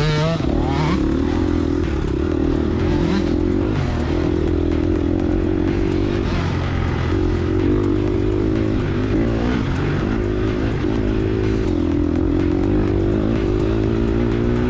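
Gas Gas EX250F four-stroke single-cylinder dirt bike engine revving up and down under riding, with a sharp rise in revs at the start.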